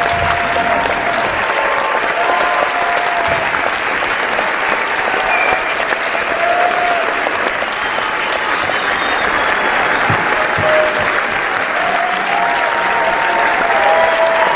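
Audience applauding steadily: dense, continuous clapping from many hands, with faint short voice-like calls above it.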